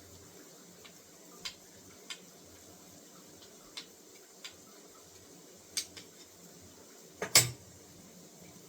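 Kitchen utensils and dishes clinking: scattered light taps and clicks, then one loud clatter near the end.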